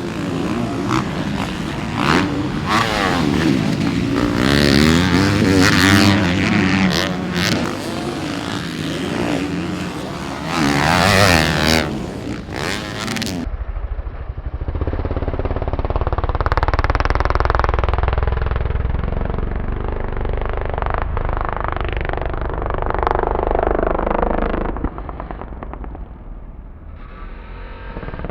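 Motocross bike engine revving hard, its pitch climbing and dropping again and again through throttle changes and shifts. About halfway through the sound cuts abruptly to a duller, steadier engine drone with a deep rumble underneath.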